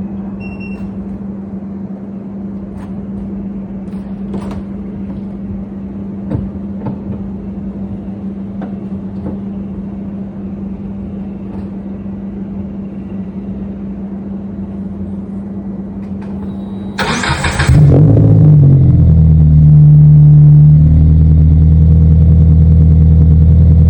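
A steady hum with scattered clicks. About three quarters of the way in, the starter cranks briefly and the Scion FR-S's 2.0 L flat-four boxer engine fires. It then runs loudly at a raised cold-start idle through its muffler-deleted exhaust.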